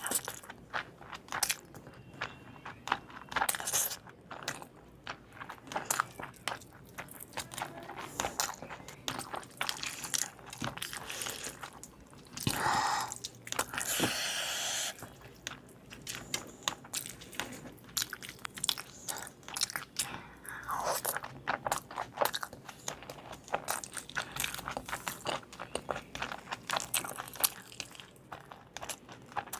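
Close-up eating sounds: a person biting and chewing crunchy fried chicken, with many sharp crunches and mouth clicks. About halfway through, a longer, steadier noise lasts for about two seconds.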